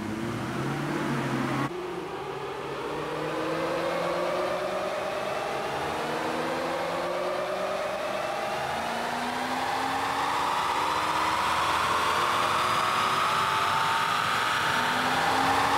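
Lexus GS430's aluminium V8 running hard on a rolling-road dyno, the engine note and the whine of the driven tyres on the rollers rising steadily in pitch and growing louder as the car is run up toward 100 mph for a power-and-torque measurement.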